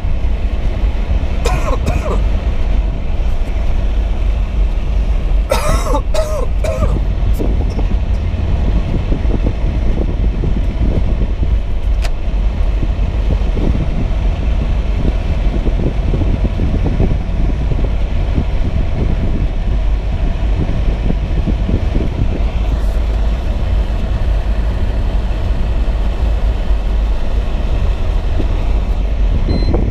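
Steady low rumble of a car driving through deep snow, heard from inside the cabin. There are two short human vocal sounds, about two and six seconds in.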